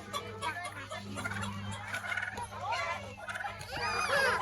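Farmyard poultry calling while being hand-fed lettuce: a chatter of short, warbling, gobble-like calls, with a louder burst near the end.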